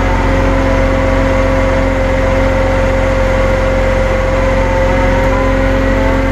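Tow truck running steadily while it winches a stuck pickup. A constant whining tone rides over the steady low rumble of the engine.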